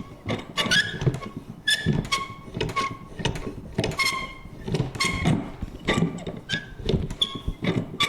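Vintage paper punch worked over and over: metal clunks about twice a second, irregularly spaced, many with a short squeaky creak from the lever.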